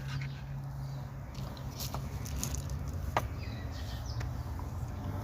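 Steady low hum with a few sharp clicks and faint high chirps.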